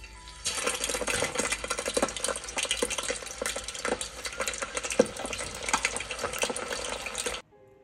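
Chicken leg frying in hot oil in a wire basket: steady sizzling with many small pops and crackles, starting about half a second in and cutting off suddenly near the end.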